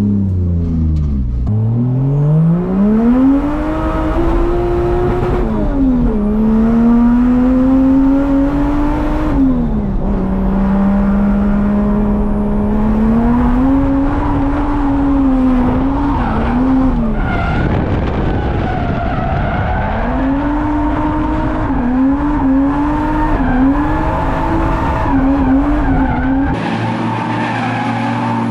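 Drift car's engine revving up and dropping back again and again through a drift run, with tyres skidding and squealing. About 17 seconds in, the engine pitch gives way for a few seconds to a rough, noisy stretch.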